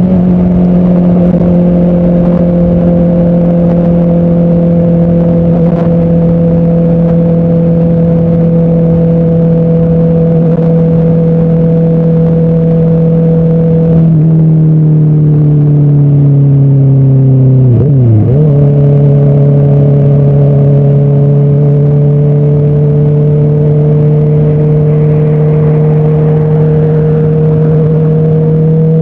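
Motorcycle engine running at steady highway revs, heard from the rider's seat. About two-thirds of the way through the engine note drops sharply and settles lower, as in a shift up a gear, then slowly climbs again as the bike gathers speed.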